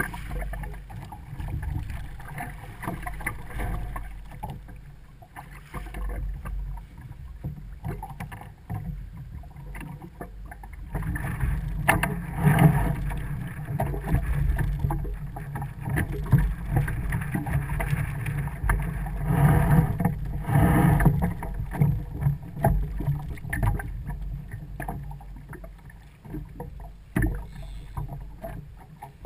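Water sloshing and rumbling around a kayak, heard muffled through an action camera's waterproof housing. Irregular and noisy, louder for about ten seconds in the middle.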